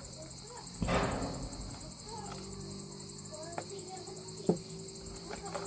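Crickets chirping steadily in a continuous pulsing chorus. A short burst of noise comes about a second in, and a single sharp knock about three-quarters of the way through.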